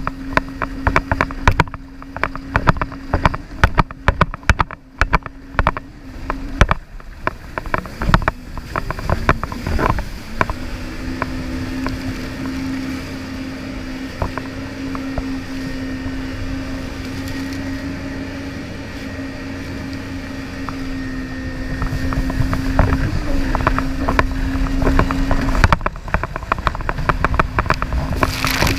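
Jet ski engine running with a steady whine, broken by rapid knocks over roughly the first ten seconds and then running smoothly. The whine dips in pitch briefly near the end and drops out for a few seconds before returning.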